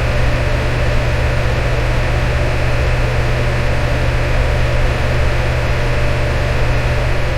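Electric fan running steadily: a constant rush of air over a deep hum, with a faint steady tone from the motor.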